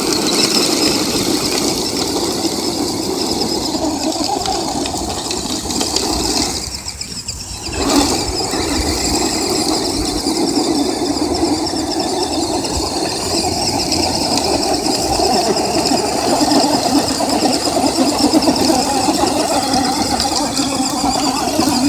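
Electric RC trucks' motors and geartrains whining steadily under load as they pull against each other. The sound drops briefly about seven seconds in, then comes back with a click.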